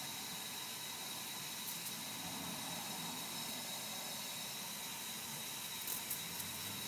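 Faint steady hiss with a thin, steady high tone running under it, and a couple of faint ticks near the end.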